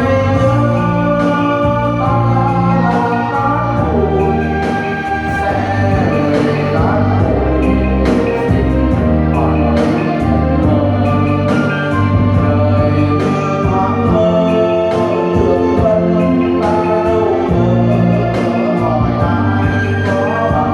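A song: a singing voice over held instrumental chords and a bass line.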